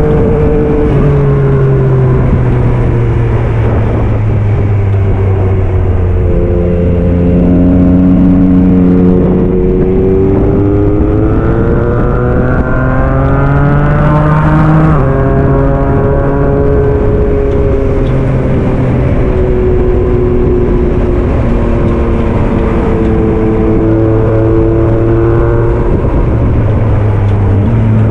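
2022 Yamaha MT-09 SP's 890 cc three-cylinder engine with a Black Widow aftermarket exhaust, pulling up a mountain road and rising and falling in revs. The note climbs steadily for several seconds and drops sharply about fifteen seconds in, over a steady rush of wind.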